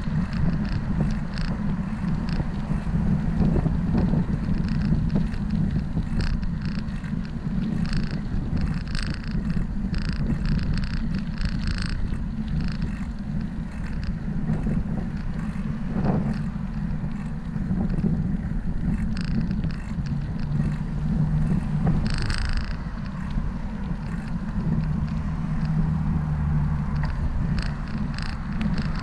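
Steady low rumble of a bicycle ride along a street, with scattered short clicks and rattles, a cluster of them a third of the way in and another burst about three quarters through.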